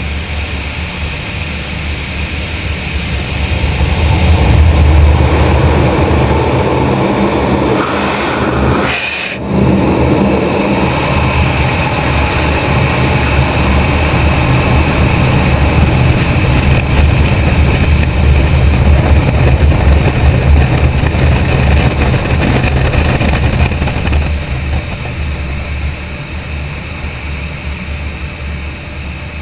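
Steady low rumble of a car running, with a brief break about nine seconds in.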